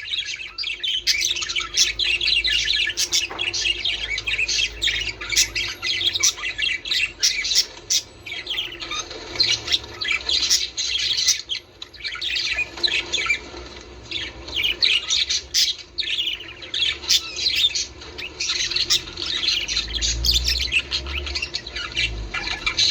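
A flock of budgerigars chattering nonstop: many overlapping warbles, chirps and short squawks.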